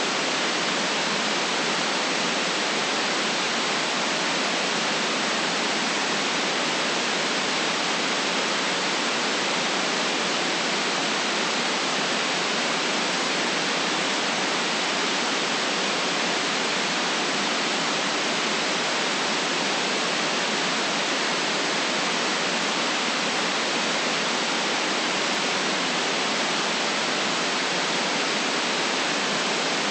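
Steady synthetic white noise, an even hiss with no deep bass and no top treble, unchanging throughout.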